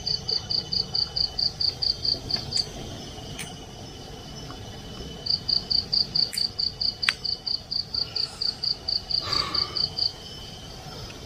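Night-time cricket chirping in fast, even pulses, about five or six a second, in two runs: one ending about two and a half seconds in, and another from about five to ten seconds in. A faint, steady high-pitched insect drone sits underneath.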